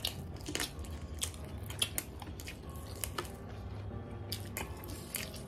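Close-miked eating: biting and chewing chicken leg pieces, with wet smacking mouth sounds and irregular clicks several times a second, over a low steady hum.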